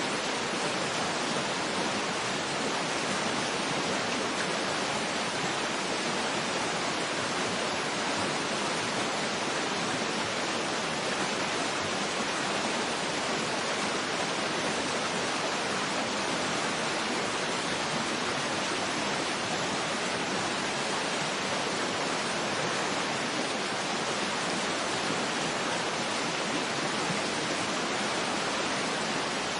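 Waterfall ambience: a steady, even rush of falling water with no changes or separate events.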